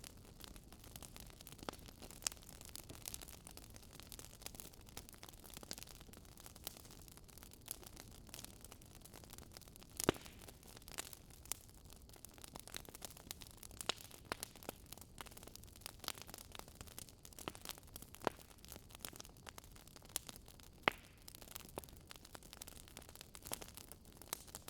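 Wood fire crackling, with irregular small pops and a few sharper snaps over a low steady rush.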